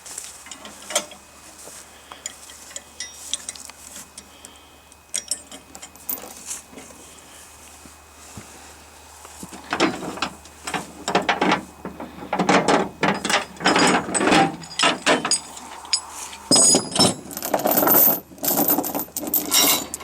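Steel tie-down chain and chain binder being handled to secure the tractor: scattered metal clinks at first, then from about halfway on, dense, loud clanking and rattling of chain links.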